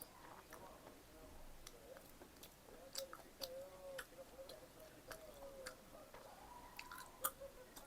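Close-miked chewing of pizza: irregular soft, wet mouth clicks, a few sharper ones, the loudest about seven seconds in, over a faint wavering tone.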